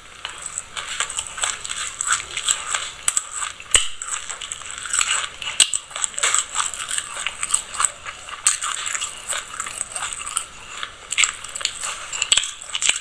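Close-up crunching of a mouthful of black sesame seeds being chewed: a dense, steady stream of small crisp crackles and clicks.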